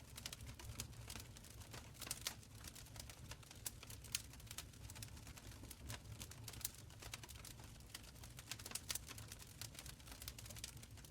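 Wood fire burning in a stone fireplace, crackling softly with irregular small pops and snaps over a faint low rumble.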